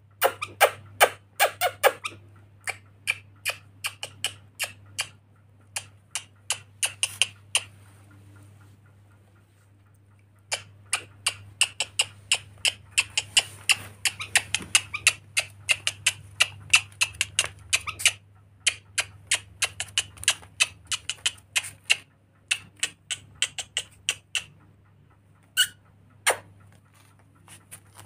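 Pet lory making runs of short, sharp clicks and squeaks, several a second, broken by a pause of about two seconds a third of the way in and thinning to a couple of clicks near the end, over a steady low hum.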